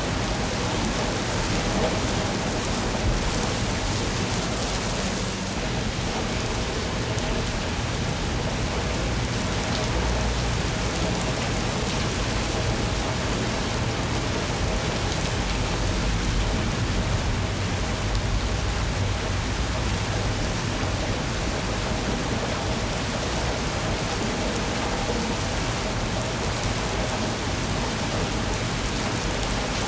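Steady rain falling: an even hiss with a low rumble underneath that swells and fades at times.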